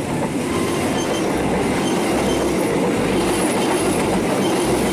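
Passenger train carriages passing at close range, their wheels rolling on the rails in a steady, loud rumble and rattle.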